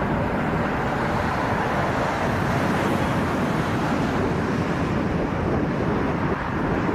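Jet airliner at takeoff power: engine noise and rushing air blend into a steady, even rushing noise.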